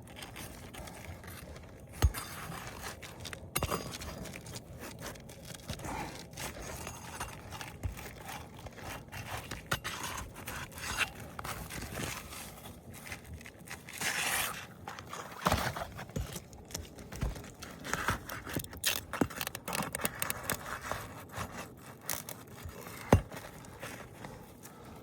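Brittle asphalt roof shingles and underlayment being pried and pulled off a roof: irregular scraping, tearing and crackling with scattered sharp clicks and knocks.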